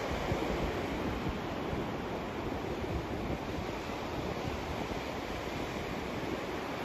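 White noise: a steady, even hiss spread from deep to high pitches, unchanging throughout.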